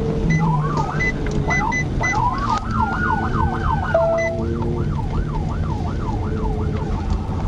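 Police car siren starting with long rising and falling wails, then switching to a rapid yelp about two seconds in, over the patrol car's road noise.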